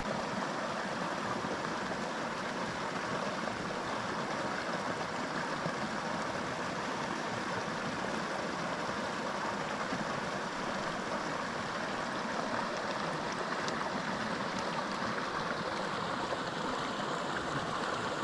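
Small mountain creek flowing, a steady rush of water that does not change.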